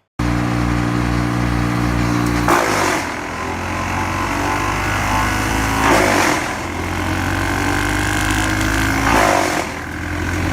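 Hand-fed brush chipper's engine running steadily, with three loud spells of chipping about three seconds apart as branches go through the cutter.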